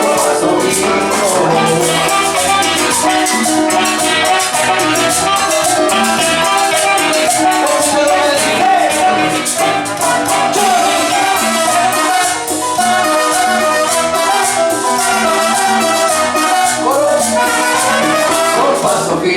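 Latin dance music from a dance orchestra, playing continuously with a steady, quick beat.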